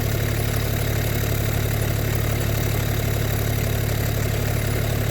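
Massey Ferguson 1725 compact tractor's 25 hp engine running steadily, an even low hum with no change in speed.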